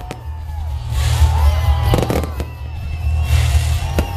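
Fireworks display: shells bursting with sharp bangs, one right at the start, a cluster about two seconds in and another near the end, over background music.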